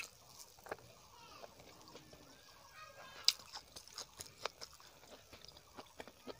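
Close-miked chewing and lip-smacking while eating rice and curry by hand, with sharp wet mouth clicks scattered throughout; the loudest click comes a little past three seconds in.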